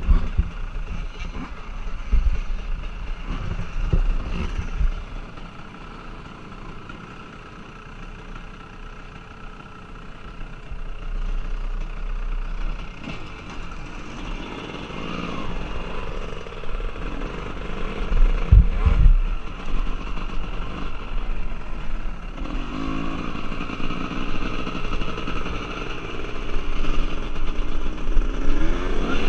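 Motocross bike engines running on a track, rising and falling in pitch as riders open the throttle, with a bike revving up loudly near the end. Deep thumps come in the first few seconds and again about two-thirds of the way through.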